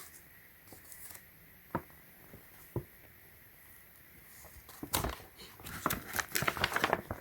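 Faint handling noise of paper and packaging: a couple of soft clicks, then a few seconds of rustling and crinkling from about five seconds in.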